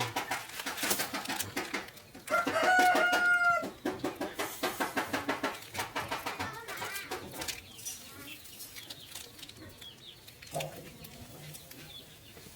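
Chickens clucking, with a rooster crowing once about two seconds in, a single held call of about a second and a half that is the loudest sound. The clucking thins out and grows quieter after about eight seconds.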